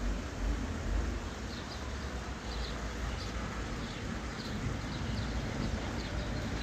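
Steady rush of stream water and rain, with a small bird chirping over it in short repeated notes from about a second and a half in. A low rumble is heard in the first second.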